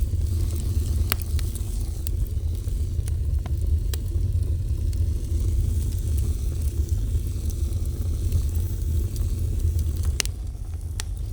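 Fire burning with a steady low rumble and a soft hiss, broken by scattered sharp crackles and pops, a few louder ones about a second in and near the end.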